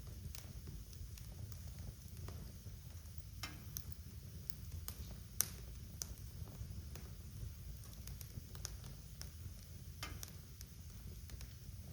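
Wood fire in a fireplace crackling: irregular pops and snaps over a low steady rumble, with one sharper pop about five seconds in.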